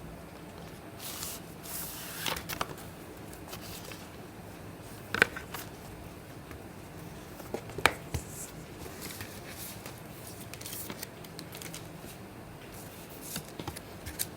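Packaging being handled: intermittent rustling, with a few sharp clicks, the two loudest about five and eight seconds in.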